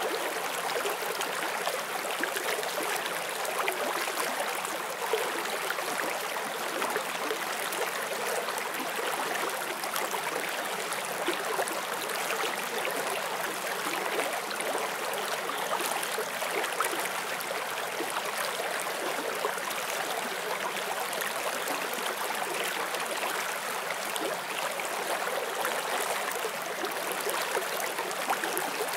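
Forest stream flowing steadily over rocks: an even rush of water with fine gurgles and splashes.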